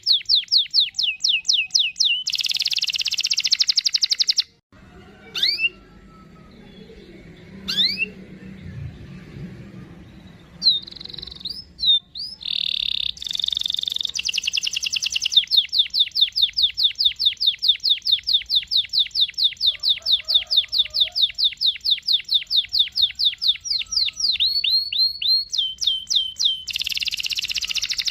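Domestic canary singing long rolled trills of fast repeated notes. The song breaks off a few seconds in, with only scattered short whistles for several seconds, then runs on in a long unbroken roll of about ten seconds.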